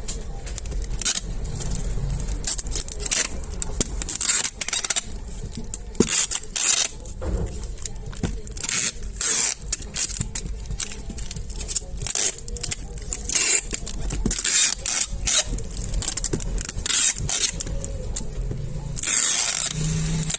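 Packaging being handled for shipping: many short, irregular scraping and rustling strokes, with a longer hiss near the end, over a steady low rumble.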